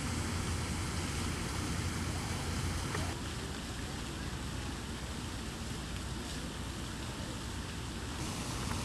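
Steady low rumble and rushing noise of a moving passenger train, which eases slightly about three seconds in.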